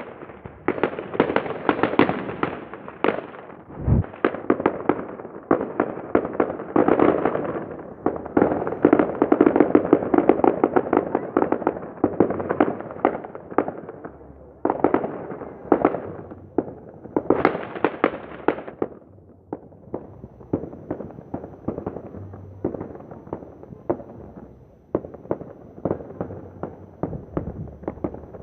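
Fireworks display: a rapid, dense run of bangs and crackling, heaviest in the first two-thirds and thinning to sparser pops near the end, with one deep boom about four seconds in.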